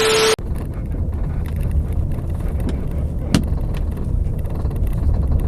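Low, steady vehicle rumble, with a loud burst of hiss and a held tone cutting off about a third of a second in, and a single sharp click a little past the middle.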